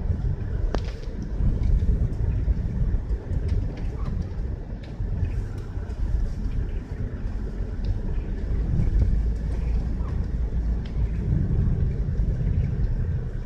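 Car driving on a road in a blizzard: a steady low rumble of road and wind noise that swells and eases, with a few faint ticks.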